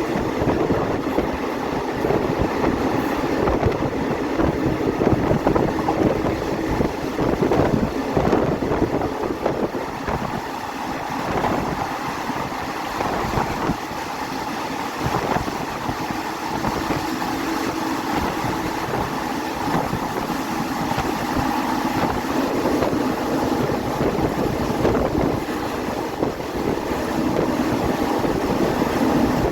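Passenger train running steadily along the track: a continuous rumble of the carriage on the rails with a faint steady hum.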